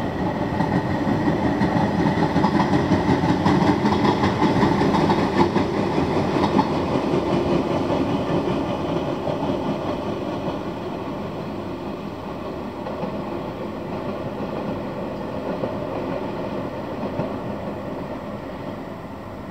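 Electric multiple-unit train (413 series in all-blue livery) running along the track as it arrives at the station. The running noise is loudest in the first several seconds, then slowly fades as the train moves off.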